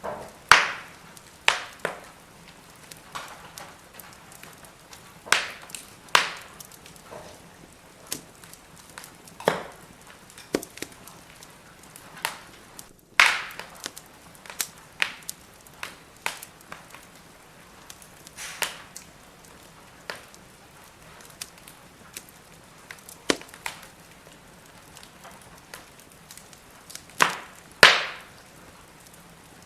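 Firewood fire crackling: irregular sharp pops and snaps of burning logs, some loud and some faint, over a faint steady hiss.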